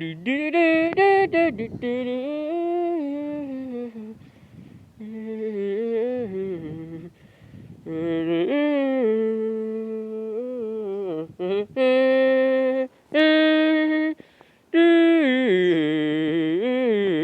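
A person humming a tune, with gliding pitch and some long held notes, broken by short pauses.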